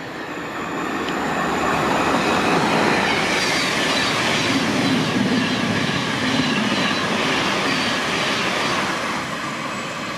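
Thameslink Class 700 electric multiple unit rolling past on the rails, a steady loud rush of wheel and rail noise that builds over the first couple of seconds and eases slightly near the end, with faint high wavering tones above it.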